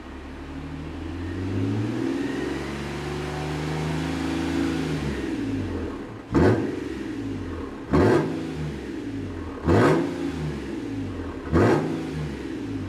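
Nissan E51 Elgrand's 3.5-litre V6 revving through a one-off quad-tip titanium straight exhaust: the revs climb slowly and hang for a few seconds, then four sharp throttle blips come about two seconds apart, each rising fast and dropping straight back.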